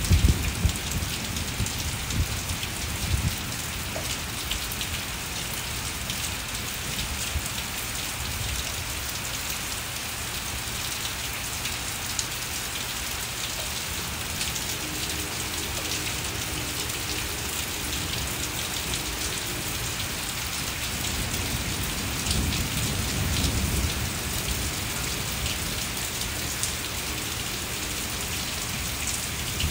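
Heavy rain falling steadily on brick paving and garden plants, a dense even hiss of drops. Low thunder rumbles near the start and again briefly about three-quarters of the way through.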